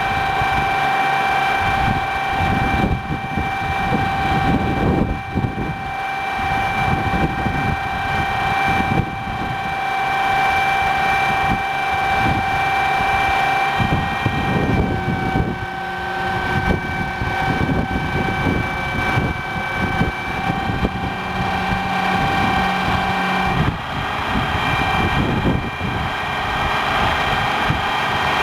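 1982 Ford flatbed crane truck running, with a steady high whine over an uneven low rumble; the whine shifts slightly in pitch about halfway through.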